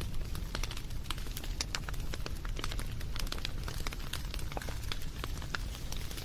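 Campfire burning, a steady low rumble with many small irregular crackles and pops from the burning wood.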